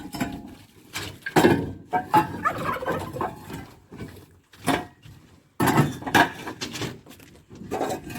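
Turkeys gobbling in several separate rattling bursts.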